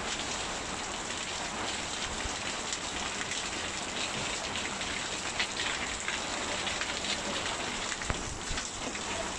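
Steady rain falling, with many small drop hits and a couple of sharper knocks, one midway and one near the end.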